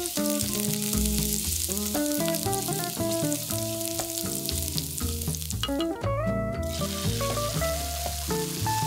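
Minced garlic sizzling in olive oil in a stainless steel pan, stirred with a wooden spoon. The sizzle drops out briefly about six seconds in, then resumes with halved cherry tomatoes frying.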